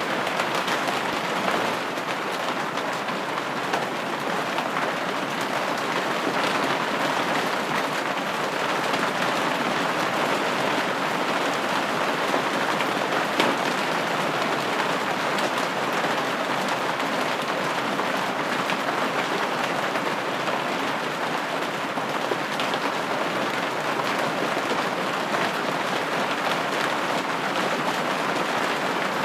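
Steady rain pattering on a window pane, an even hiss dotted with countless small drop taps.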